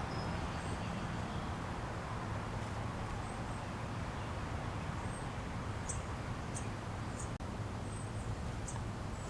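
Small songbirds chirping in short, high notes, several spaced chirps in the second half, over a steady low outdoor hum.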